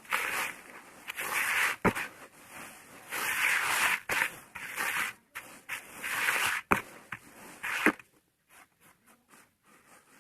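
Dry, moulded sand being smashed and crumbled into loose grainy sand: several gritty crunching bursts with a few sharp cracks as chunks break. The crumbling turns much quieter about eight seconds in.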